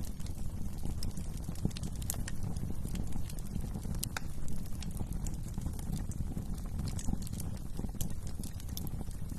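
Wood fire burning in a fireplace: scattered sharp crackles and pops at irregular intervals over a steady low rumble of the flames.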